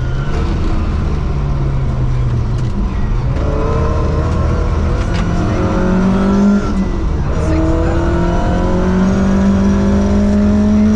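Ford Escort Mexico rally car's engine heard from inside the cabin, pulling hard with its pitch climbing, with short breaks about three seconds and about seven seconds in before it climbs again. A constant rush of tyre and gravel-road noise runs underneath.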